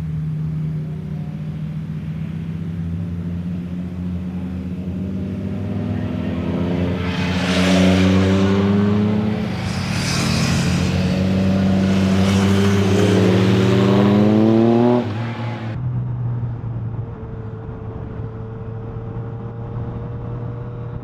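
Suzuki GSX650F inline-four motorcycle engine under way, its pitch rising in three sweeps as it accelerates and gets louder, then the throttle closes sharply about fifteen seconds in and it settles to a steadier, quieter run.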